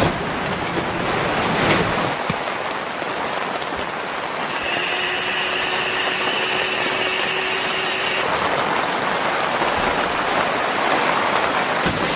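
Steady rain falling, an even hiss. About four seconds in, a faint steady tone joins for roughly three and a half seconds, then stops.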